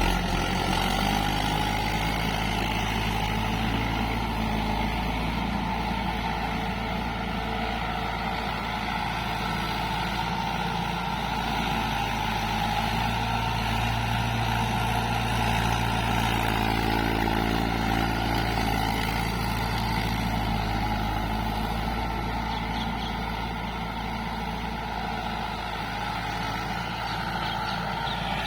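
Tractor diesel engine running steadily under load, driving a rotavator through wet soil.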